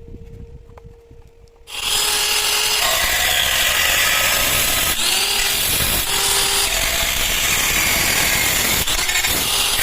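Angle grinder working steel, starting abruptly about two seconds in and then running steadily: a loud hiss with a faint whine over it.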